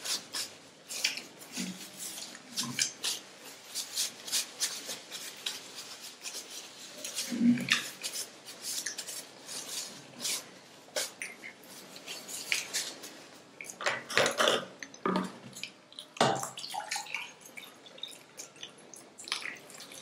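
Close-miked chewing and mouth sounds of someone eating a breadcrumb-coated chicken cheese roll: many short wet clicks and smacks, scattered and uneven.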